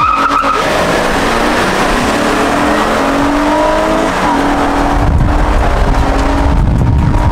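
Vehicle engines accelerating hard in a street drag race, the engine pitch climbing in steps as it shifts up through the gears. A loud low rumble comes in about five seconds in.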